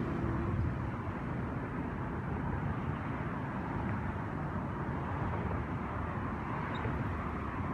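Steady outdoor rumble and hiss with no distinct events.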